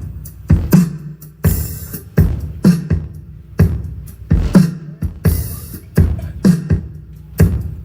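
Dance music with a heavy kick-drum beat played loud through a 2x18-inch bass reflex subwoofer box, the deep bass hits repeating in a steady rhythm.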